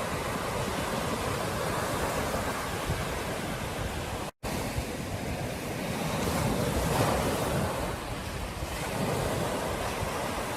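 Ocean surf washing onto a beach, a steady rush of breaking waves that swells louder a little past the middle, with wind buffeting the microphone. The sound drops out for an instant about four seconds in.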